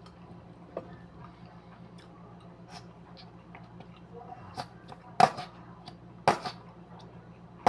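Food and utensils being handled while a sandwich is put together: small scattered clicks and rustles, then two short, louder noisy sounds about five and six seconds in, over a steady low hum.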